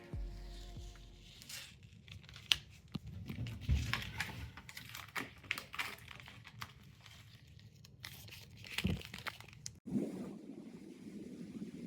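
Irregular crinkling and crackling, a run of sharp little clicks and rustles. Near the end it breaks off suddenly and gives way to a steady low rumble.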